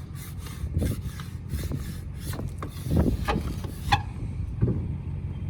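Repeated rubbing and scraping strokes, a few louder ones about a second in and around three and four seconds in, over a low steady rumble.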